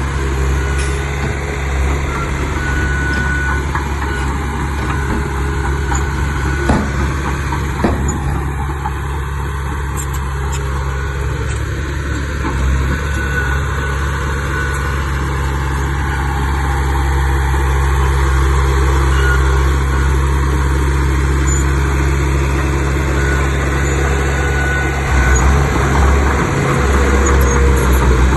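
Heavy diesel earthmoving machinery running steadily under work, with two sharp metallic knocks about seven and eight seconds in and the engine getting louder near the end.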